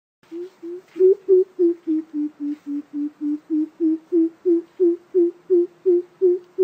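Coucal (bìm bịp) giving its deep hooting call: a long run of about twenty low 'boop' notes at roughly three a second. The first two notes are softer, and the pitch sags a little midway before rising again.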